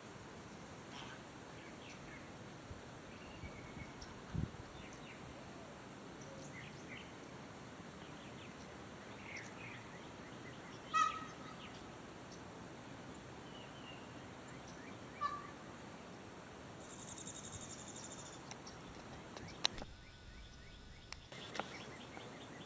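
Peafowl giving short scattered calls over a quiet outdoor background, the loudest about halfway through, with a second one a few seconds later. A brief fast-pulsed high buzz sounds near the end.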